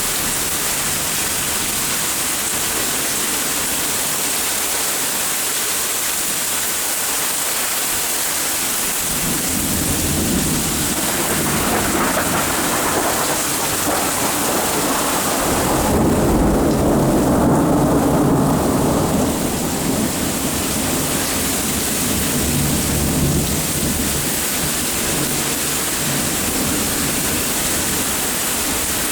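Steady rain with a long roll of thunder that builds about a third of the way in, peaks around the middle and rumbles away over several seconds.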